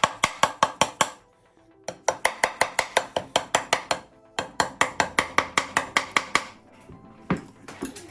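Hammer tapping on a metal transmission housing in quick runs of about five blows a second, three runs with short pauses between, then one single knock near the end: the housing is being knocked loose and coming out.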